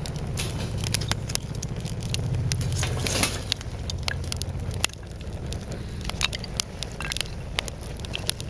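Hardwood fire crackling and popping in a small sheet-metal wood stove, with many sharp irregular pops over a steady low rumble. There is a brief hissing swell about three seconds in.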